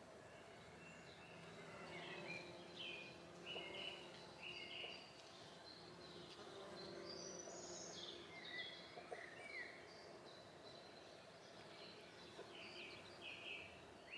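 Faint outdoor garden ambience with a small songbird chirping: short notes that slide downward, given in little runs of two or three, with one higher call about seven seconds in, over a faint steady hum.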